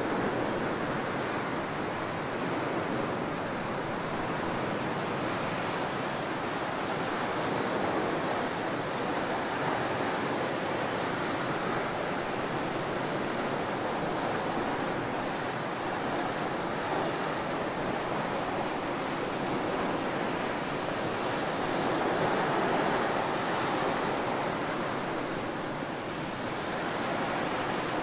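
Ocean surf breaking on a tropical beach: a continuous wash of waves with gentle rises and falls, one swelling a little louder about three-quarters of the way through.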